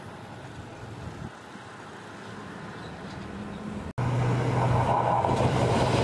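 Yellow Seibu electric commuter train approaching on the line, a distant low rumble. About four seconds in, a sudden cut to a much louder, steady rumble with a low hum: a Seibu New Red Arrow limited express coming up fast, still just out of sight.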